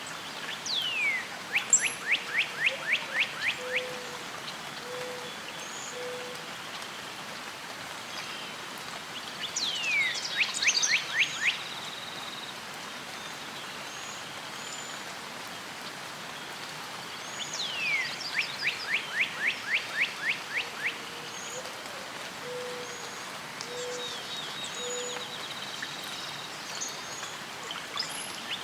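A songbird singing the same phrase three times, about every eight or nine seconds: a high note sweeping downward, then a quick run of about eight chirps. A steady background hiss runs underneath, and twice a low three-note call sounds.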